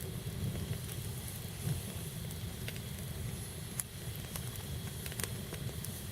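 Campfire burning with scattered sharp pops and crackles over a steady hiss and low rumble.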